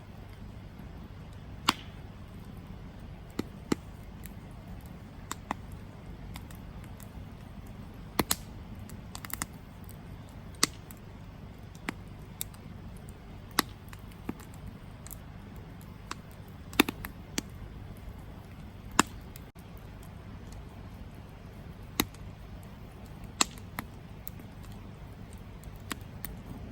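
Wood campfire crackling: sharp, irregular pops and snaps every second or so, some louder than others, over a low, steady background noise.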